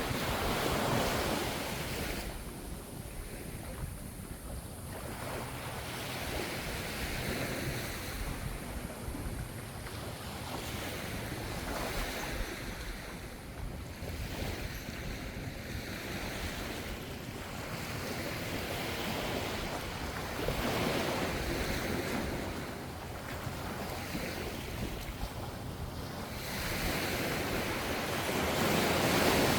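Ocean waves washing onto the shore. The surf surges and recedes every four to seven seconds, and the loudest surge comes near the end.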